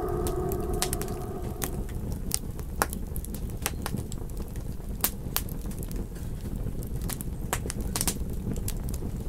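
Campfire crackling: sharp pops at irregular intervals over a steady low rumble. The tail of a wolf howl fades out in the first second or so.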